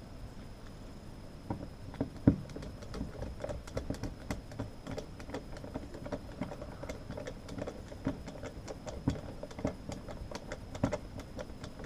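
Irregular light clicking and tapping at a heater register's sheet-metal ductwork, with one louder knock about two seconds in.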